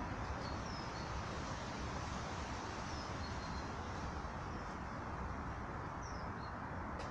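Birds giving a few short, high chirps, about three, spaced a few seconds apart, over a steady rushing background noise.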